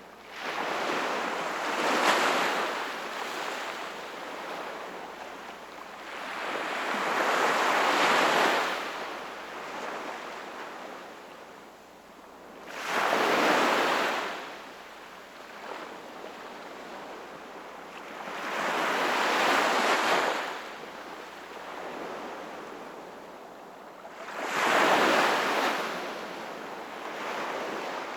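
Sea waves breaking and washing in, about five waves in a row, each swelling up and fading away roughly every six seconds.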